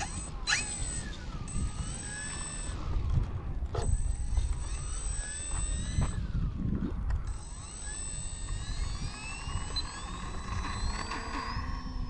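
Electric motor and propeller of an E-flite Valiant RC plane whining during takeoff, its pitch rising and falling repeatedly with the throttle. Wind rumbles on the microphone underneath.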